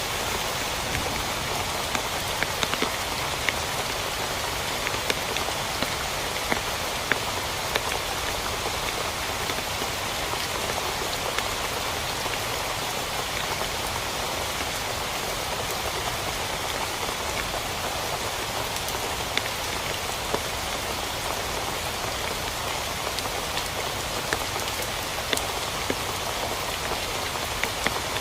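Steady heavy rain falling on a tent: an even hiss with frequent sharp ticks of individual drops hitting the fabric.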